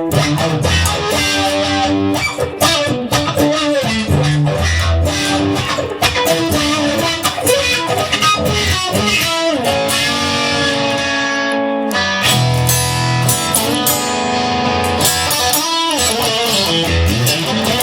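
Instrumental guitar music with no singing: electric guitar playing sustained, sliding melody notes over strummed chords.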